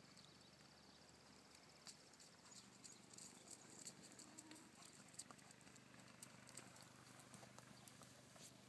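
Near silence, with a horse's hooves stepping faintly and irregularly from about two seconds in.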